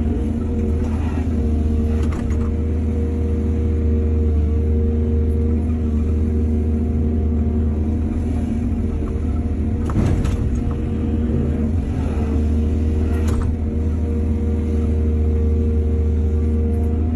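Excavator's diesel engine running steadily under work, with a few short knocks and clanks.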